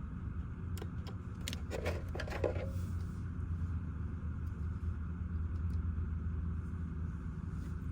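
Car engine idling with the air-conditioning blower running, a steady low hum and fan rush inside the closed-up cabin. A few light clicks and a short rustle about two seconds in.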